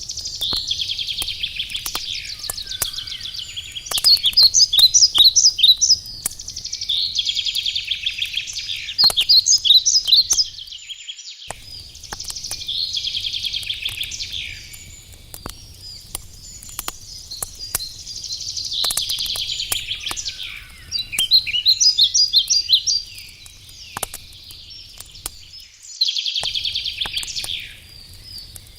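Songbirds singing in repeated warbling phrases, with many sharp crackles and pops from a burning wood campfire.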